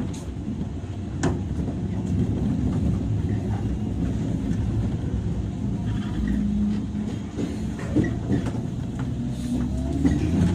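Running sound heard aboard a 103 series electric train's motor car: the wheels and DC traction motors rumble steadily over the rails, with occasional sharp knocks. Near the end, the motor whine starts to rise in pitch.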